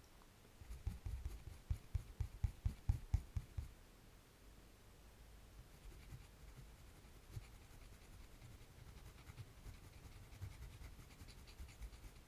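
Drawing on paper: a quick run of short scratchy strokes, about three or four a second, in the first few seconds, then fainter, sparser strokes.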